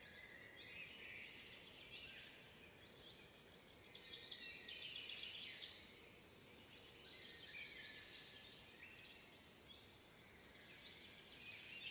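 Several songbirds singing and chirping at once in a spring woodland chorus, faint, with many overlapping trills and short phrases that are fullest about four to six seconds in.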